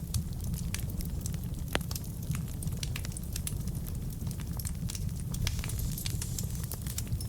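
Wood fire burning in a fireplace: a steady low rumble of flame with frequent sharp crackles and pops from the burning logs, one louder pop a little under two seconds in.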